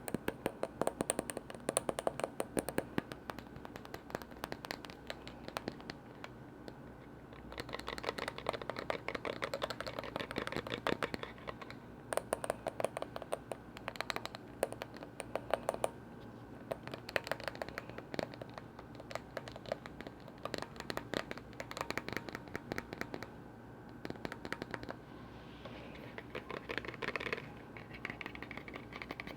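Rapid tapping and scratching on lids, in runs of many quick taps with short lulls between.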